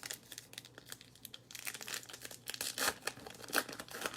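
Baseball card pack wrapper being torn open and crinkled by hand: irregular rustling and crackling, busiest about halfway through.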